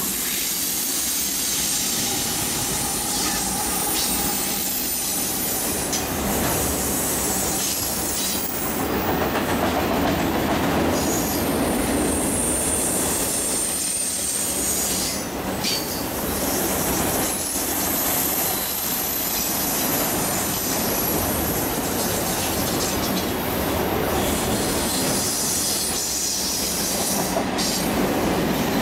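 Freight train cars rolling past at close range: a steady rumble of steel wheels on rail, with high-pitched wheel squeal coming and going and occasional sharp clanks.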